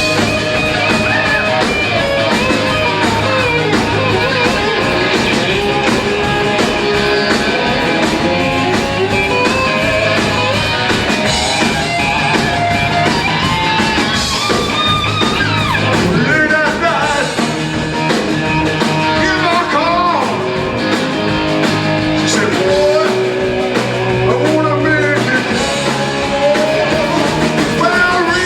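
Live rock band playing, with electric guitar over bass and drums and a steady beat.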